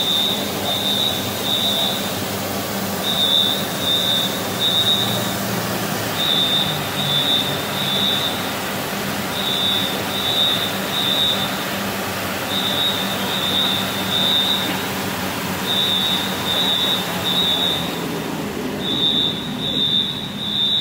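Smoke alarm sounding in the three-beep fire-alarm pattern: high beeps in groups of three, repeating about every three seconds. Underneath runs a steady low hum with mechanical noise.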